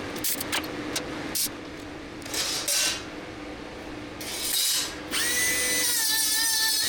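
A few sharp clicks and short rustling, handling noises, then about five seconds in an electric power tool switches on and runs with a steady high whine that settles slightly lower in pitch.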